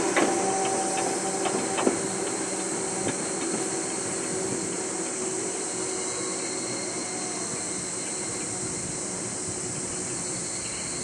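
Steam-hauled train of the C56 locomotive going away: a few clicks of wheels over rail joints in the first two seconds, then a steady rumble and high hiss that slowly fade.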